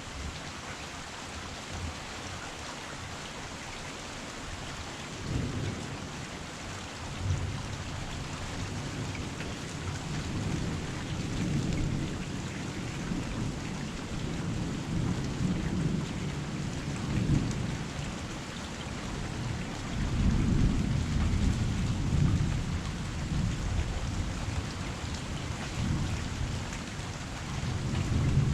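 Heavy rain falling steadily, with low rumbles of thunder that begin about five seconds in and swell and fade several times.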